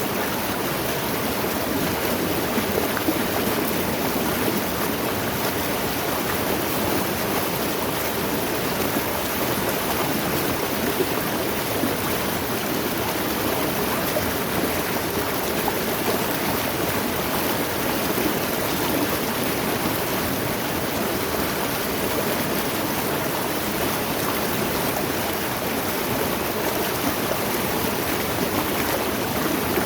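Mountain stream rushing and splashing over rocks, a steady, even flow.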